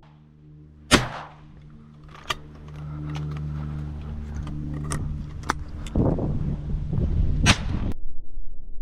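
Shotgun shots: a sharp loud report about a second in and another near the end, with fainter distant cracks in between, over a steady low hum.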